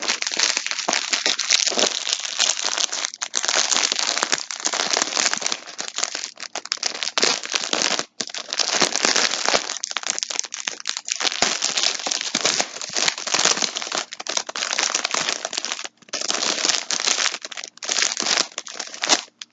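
Crinkly packaging around a yarn skein crackling and rustling as it is handled, almost without pause. It breaks off briefly about eight seconds in and again near sixteen seconds, then stops just before the end.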